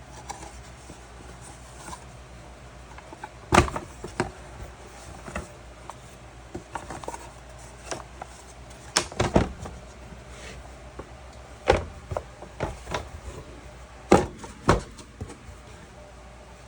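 Irregular knocks and clicks of small wooden parts being handled and set down on a work surface, with a few sharper taps about 3.5, 9, 12 and 14 seconds in.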